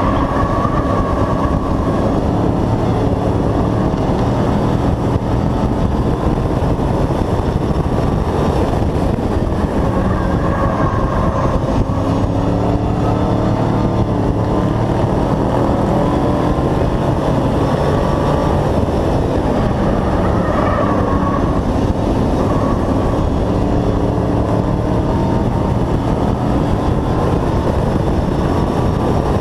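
Hobby-class race truck's engine running hard as heard from inside the truck, its pitch rising and falling every few seconds as it accelerates and lifts off through the laps, over constant rushing noise.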